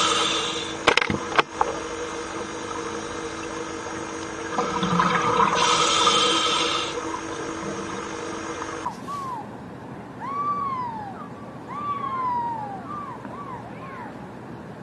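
A steady sound made of several held tones, with two sharp clicks about a second in, cuts off at about nine seconds. A bird's call then follows: a series of about eight short arched calls, each rising and then falling in pitch.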